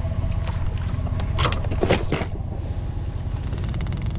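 Boat motor running steadily with a low hum, over water and wind noise. Two loud splashy surges come about a second and a half and two seconds in.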